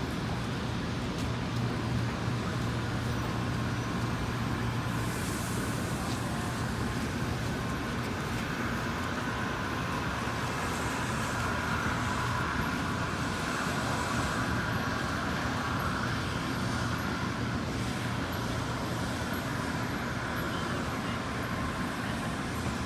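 N700A Shinkansen train giving a steady mechanical running noise, with a low hum and a higher whine that swells through the middle and then fades.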